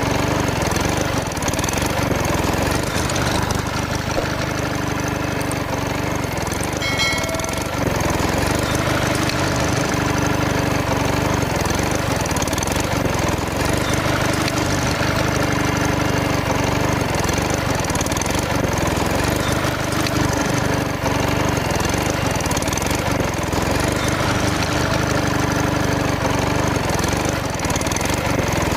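DIY toy diesel engine driving a small water pump, running steadily at an even speed with a knocking engine note. A brief high chirp comes about seven seconds in.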